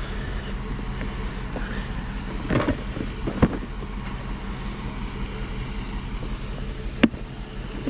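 A steady low hum, the kind an idling engine makes, with a few sharp knocks and clinks about two and a half, three and a half and seven seconds in as items are handled.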